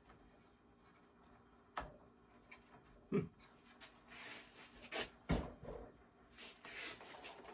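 Ski and binding being handled: a few sharp knocks and clicks, with light rubbing and scraping in between.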